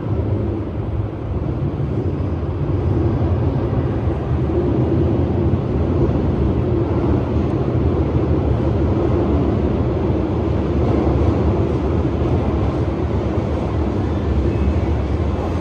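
Hanshin 8000-series electric train running through the station, a loud steady rumble of motors and wheels on rail.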